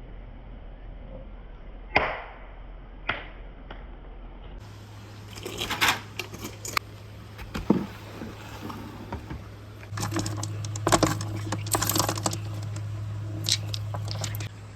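Marbles clacking and rolling along a handmade marble run: a few separate sharp clicks, then a busy run of clatter as several marbles knock against the track and each other.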